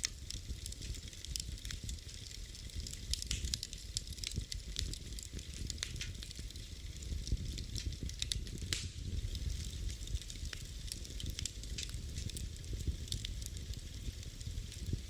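Wood fire in a fireplace crackling: frequent irregular pops and snaps over a low steady rumble of the flames.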